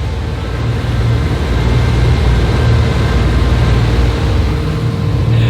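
Motorboat under way: a steady low engine drone under a loud noisy rush. It builds over the first second, then holds steady.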